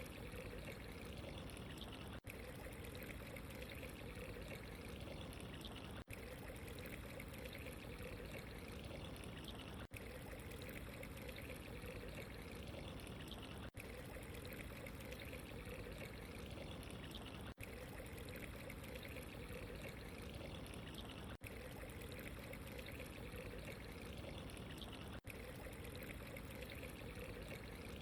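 Steady trickling, pouring water from a looped water-sound ambience track. It has a very short dropout about every four seconds where the loop repeats.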